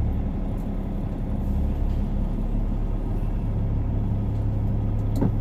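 Semi truck's diesel engine running, a steady low hum heard from inside the cab.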